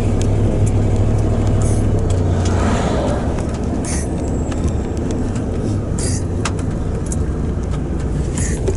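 Truck engine and road noise heard from inside the cab while driving: a steady low rumble with occasional sharp clicks and rattles.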